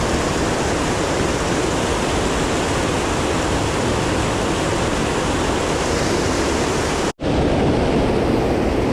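Small mountain creek rushing steadily close by. The sound cuts out completely for a split second about seven seconds in.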